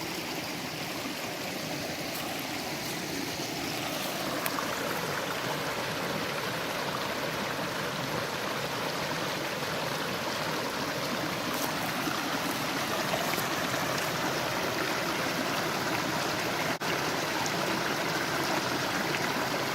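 A forest stream running over rocks in its bed: a steady rush of water that grows a little fuller a few seconds in.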